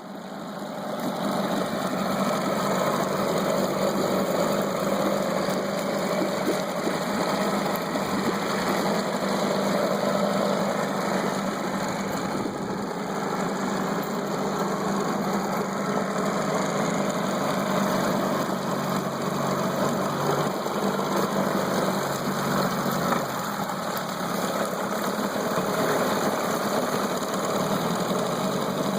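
Mercury 9.8 HP two-cylinder two-stroke tiller outboard motor running steadily, building up over the first second or two, then holding an even engine note.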